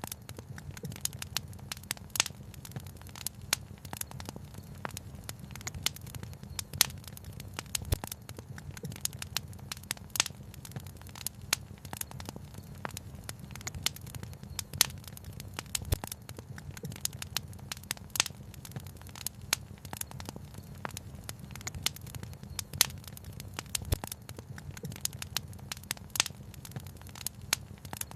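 Wood fire crackling and popping, with many sharp irregular snaps over a steady low rumble.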